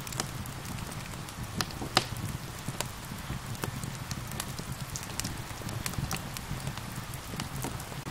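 Wood fire crackling, with irregular sharp pops and snaps. The loudest pop comes about two seconds in. Under it are a steady hiss of rain and a low rumble.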